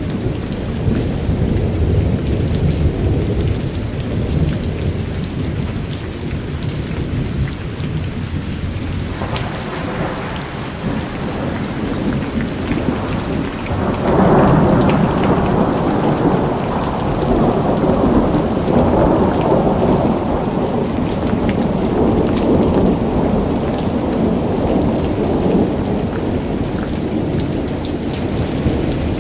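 Steady rain with rolling thunder: a low rumble in the first several seconds, then a louder clap about halfway through that rumbles on for over ten seconds.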